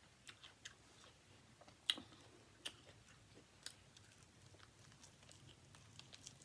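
Quiet close-miked chewing of food, with scattered crisp crunches and mouth clicks; the sharpest crunch comes about two seconds in.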